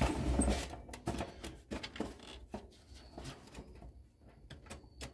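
Handling noise from the dehumidifier being worked on: a brief scrape at the start, then scattered light clicks and knocks of its parts being moved, thinning out toward the end.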